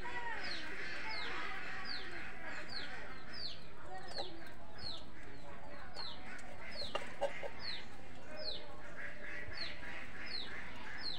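A bird's short high chirp repeated about twice a second, each call sweeping down in pitch, over domestic pigeons cooing low, with a couple of sharp clicks about seven seconds in.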